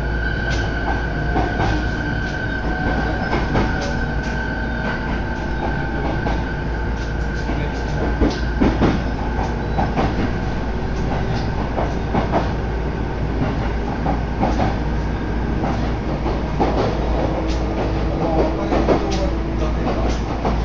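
Local train running along the line, heard from inside the carriage: a steady rumble with wheels clicking over rail joints. A high steady whine sounds for about the first six seconds, then fades.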